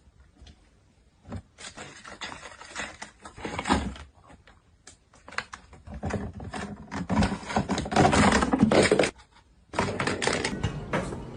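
Irregular knocking, clattering and rustling, starting about a second and a half in and growing louder toward the second half, with a brief gap about nine seconds in.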